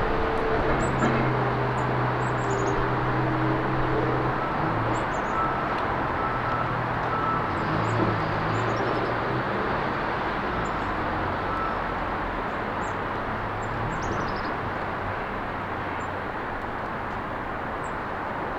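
Steady road traffic noise, with the low hum of a passing vehicle engine over the first half, easing off slowly. Small birds chirp briefly and high above it, on and off throughout.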